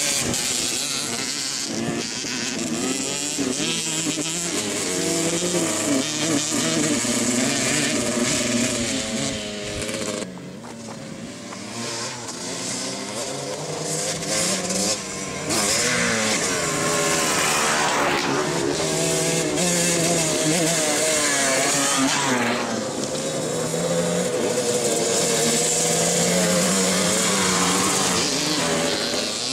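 Dirt bike engines running and revving, the pitch rising and falling repeatedly. It drops quieter for a few seconds about ten seconds in.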